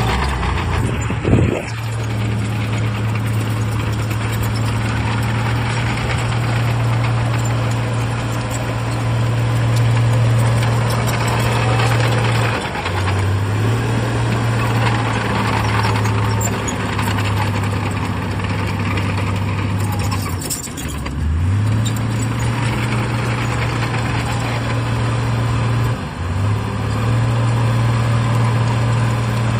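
Heavy diesel engine of earthmoving machinery running hard and steady, its pitch dipping briefly and recovering three times as it takes load. A single sudden thump about a second in.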